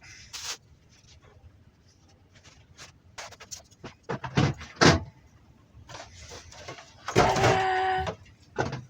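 Handling noises from reassembling an outboard fuel line: scattered clicks and knocks, two sharp ones about halfway through, then a squeak lasting about a second near the end.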